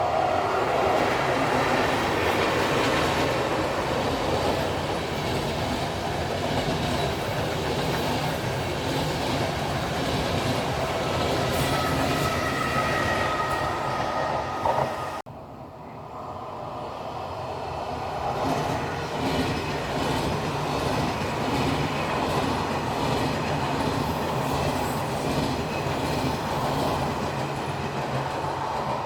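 Train running on the rails, wheels clattering over the track. The sound drops away abruptly about halfway through, then builds up again.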